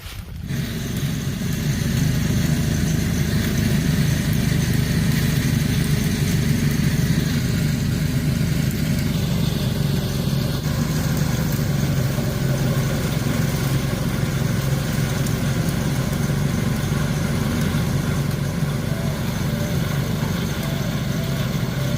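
A small engine running steadily, growing louder over the first couple of seconds and then holding an even pitch.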